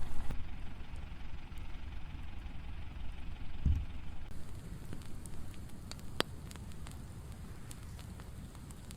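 Tractor engine running as a low rumble that fades over the few seconds, with a low thump partway through and a few sharp crackles from the burning brush pile.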